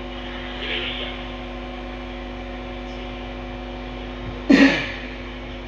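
Steady electrical mains hum, with a brief loud burst about four and a half seconds in.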